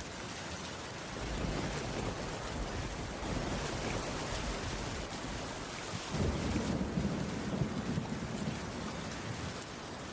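Steady rainfall, an even hiss, with a low rumble swelling up about six seconds in and fading over the next couple of seconds.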